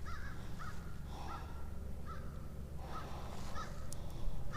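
Crows cawing, a string of short, repeated caws at irregular intervals, over a low steady hum.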